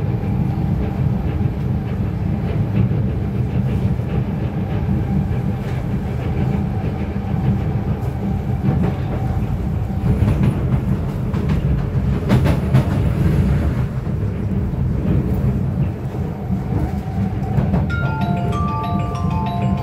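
Inside a KNS C751B MRT train running along the track: the steady low rumble of wheels and running gear, with some clicking. Near the end a chiming tune of stepped notes starts over the rumble.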